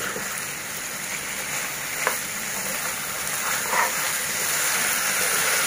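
Rice, vegetables and sauces sizzling in a hot non-stick wok as a plastic spatula stirs through them, with one brief click about two seconds in.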